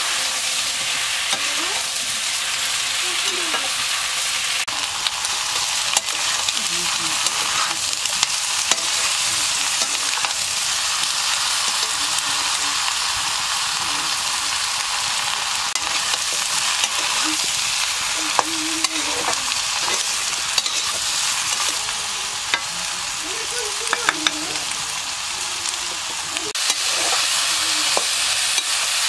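Sliced brinjal frying in oil in a karahi, with a steady sizzle. A metal spatula scrapes and clicks against the pan as the pieces are stirred.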